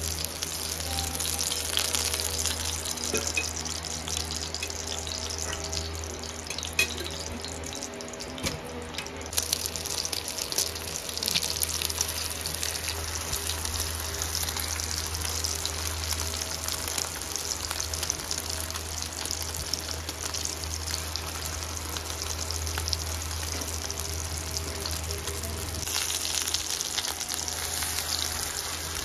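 Egg-coated chicken shami kababs frying in oil on a flat griddle: a steady sizzle full of small crackles and pops, which grows louder about ten seconds in. A low steady hum runs underneath.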